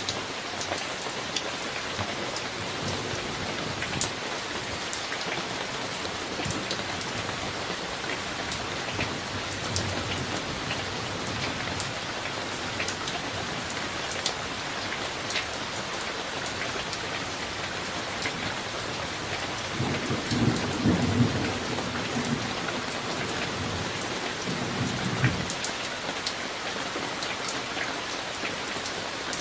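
Steady rain with individual drops tapping, and a low rumble of thunder about two-thirds of the way through that lasts several seconds.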